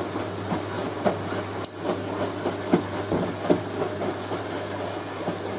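Hoover A3060 Electronic 1100 washing machine running into its final spin: a steady low hum with irregular knocks and clunks from the drum.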